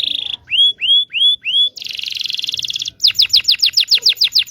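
Domestic canary singing in phrases of repeated notes: a fast buzzy trill, four rising whistled notes, another fast buzzy trill, then a rapid run of falling sweeps, about ten a second, that stops right at the end.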